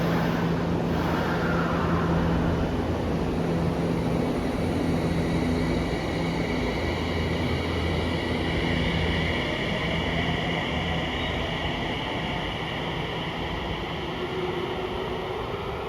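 Tsukuba Express electric train in motion: a steady running rumble with a low hum, and a high whine that comes in about six seconds in and holds, the level easing slightly toward the end.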